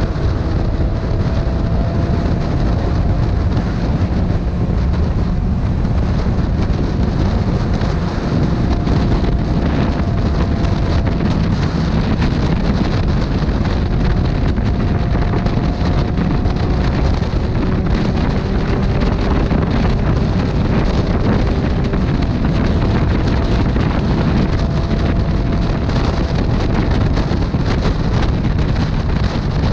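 A motorcycle being ridden at a steady speed: heavy wind rush on the microphone, with the engine's hum wandering slightly in pitch underneath.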